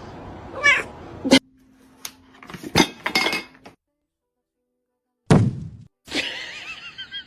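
A cat meowing, with several sharp knocks and clinks of hard objects in between.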